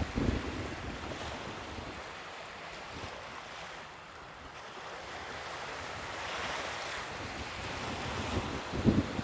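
Sea waves washing in, the surf hiss swelling about two-thirds of the way through. Wind buffets the microphone in low rumbling gusts at the start and again near the end.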